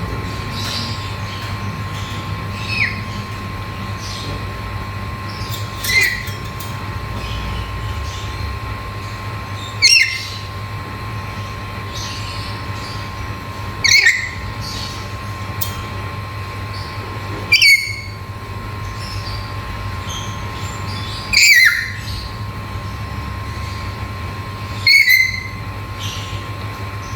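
Black-capped lory giving short, loud, shrill screeches, seven in all, about one every three to four seconds, over a steady hum.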